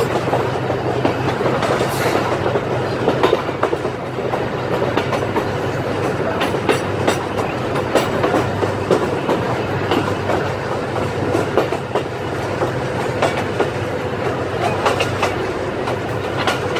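Passenger coach running along the track, heard from an open window: a steady low rumble with the wheels clicking and clattering over rail joints at uneven intervals.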